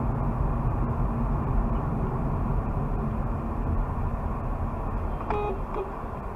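Steady road and engine noise of a car on the move, with a brief pitched beep about five seconds in.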